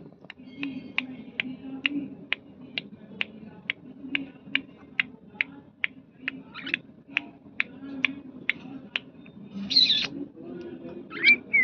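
Budgerigar giving a long run of short, sharp chirps, evenly spaced at about two a second, followed near the end by two longer warbling calls.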